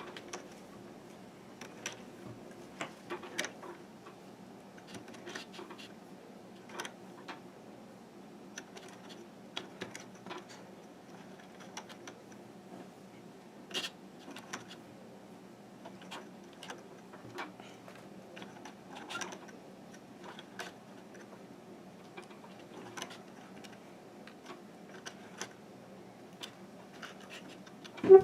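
Rubber bands being stretched and hooked onto the plastic pegs of a Fun Loom: scattered light clicks and scratches at an irregular pace, over a faint steady hum.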